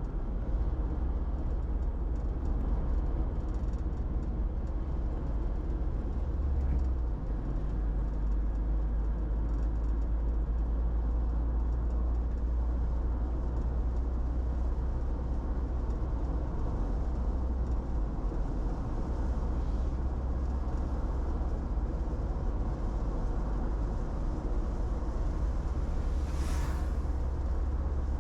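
Steady road and engine rumble heard from inside a moving car, deep and even, with tyre noise over it. A brief rushing swell comes and goes near the end.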